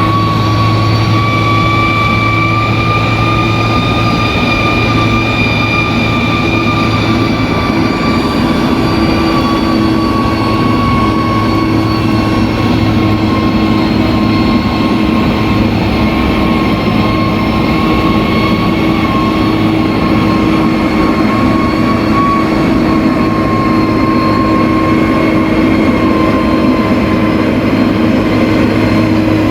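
Bulldozer's heavy diesel engine running steadily, with a high whine over its low drone that drifts slowly in pitch.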